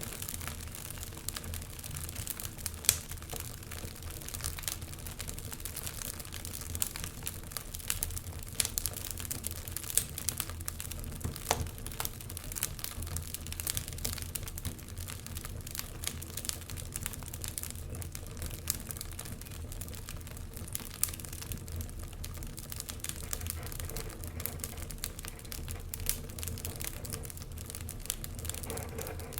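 Logs burning in a fireplace, crackling with irregular sharp pops over a low steady rumble of the flames; the loudest pop comes about three seconds in.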